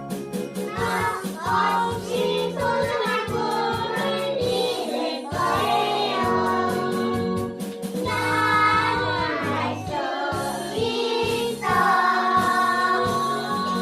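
Children's song with a group of young children singing along over a recorded backing track.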